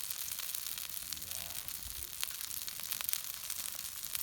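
Steady sizzling hiss with scattered sharp crackles, from food cooking over a campfire.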